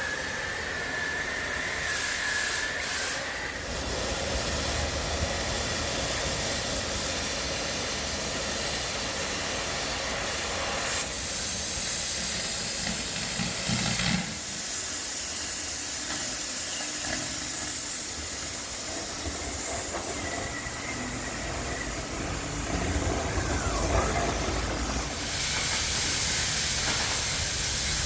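Cutting torch hissing steadily while cutting the old moldboard plate out of a bulldozer blade, with its tone shifting a few times.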